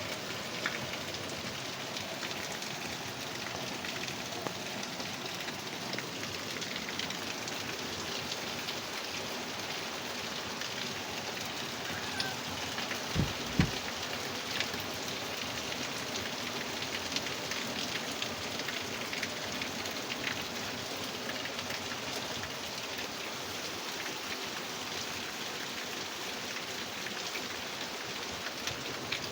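Heavy rain falling steadily, with scattered drops ticking on surfaces. A brief low double thump about halfway through.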